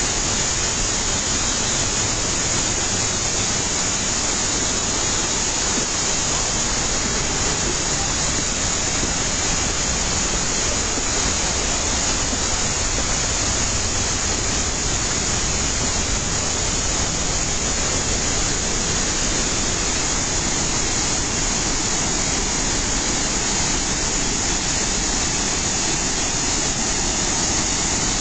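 Fukuroda Falls waterfall: a loud, steady, unbroken rush of falling water.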